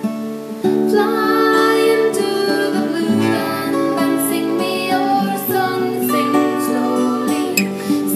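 A song: acoustic guitar playing with a singing voice, getting louder about a second in.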